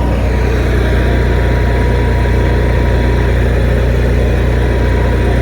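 Onan Microlite RV generator engine running steadily under a load bank after a tune-up with a cleaned carburetor and adjusted valves; it runs nice and smooth.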